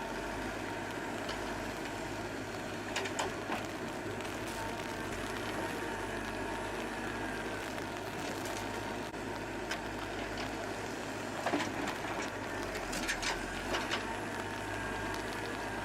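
Komatsu 835 forwarder's engine running steadily while its hydraulic crane loads logs, with a faint wavering hydraulic whine and a few sharp knocks about three seconds in and again between about eleven and fourteen seconds.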